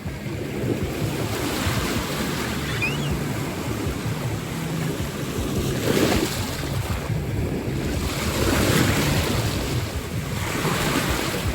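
Ocean surf washing on a beach, with wind buffeting the microphone; the wash swells louder a few times.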